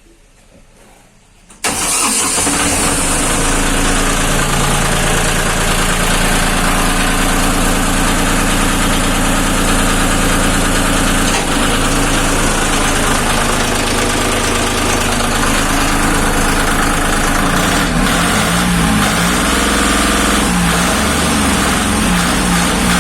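Lister Petter diesel engine starting abruptly about two seconds in, then running steadily on test, its low note shifting slightly near the end.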